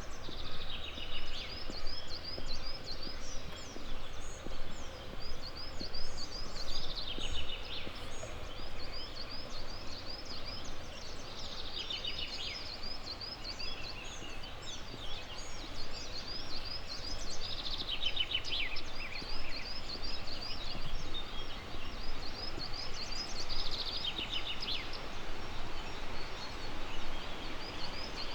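Songbirds singing over a steady background hiss: a constant run of short, high, repeated chirps, with a fuller trilling phrase about every six seconds. Regular soft thuds of footsteps on the path sit underneath.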